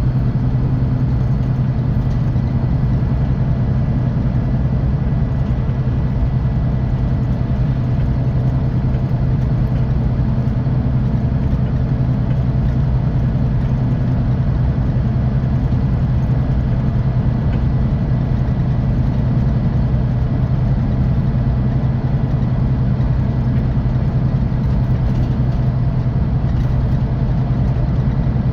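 Scania K450EB coach's six-cylinder diesel engine running steadily at constant engine speed, with a strong, even low hum and road noise.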